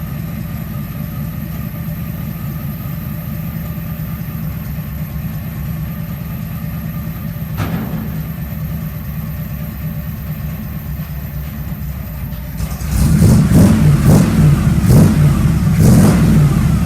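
A 1950 Ford rat rod's carbureted engine, run through headers, idling low and lumpy. It is still cold, with no choke and the idle turned way down, so it just thumps along. About thirteen seconds in it is revved several times in quick succession.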